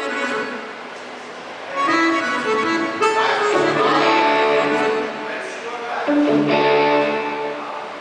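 Live sertanejo band music: an accordion plays two phrases of held chords and melody, with guitar under it, during a soundcheck.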